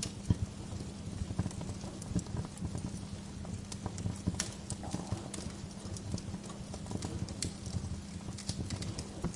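Wood fire crackling: irregular sharp pops and snaps from burning firewood over a steady low rumble of flame.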